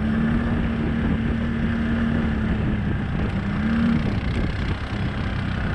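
ATV engine running steadily, revving up briefly near the end and then dropping back to a lower, steady note, with wind on the microphone.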